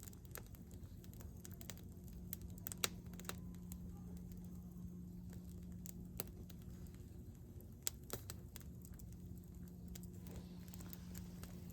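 Faint scattered clicks and taps, a dozen or so at irregular intervals, over a low steady hum.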